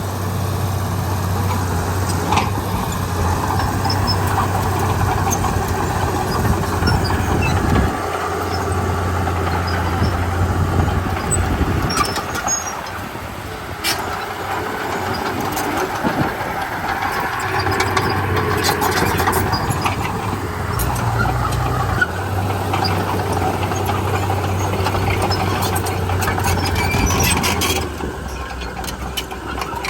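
Komatsu D31P crawler bulldozer at work: its diesel engine running with a steady low hum, alongside scattered clicks and squeals. The engine note weakens for a few seconds mid-way, then comes back.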